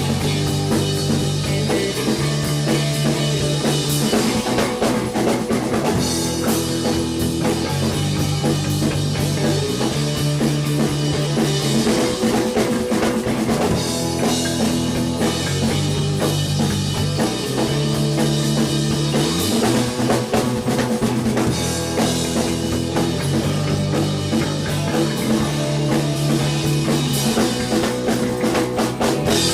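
A rock band playing live, with a steady drum kit beat, guitar and a bass line that moves between held notes.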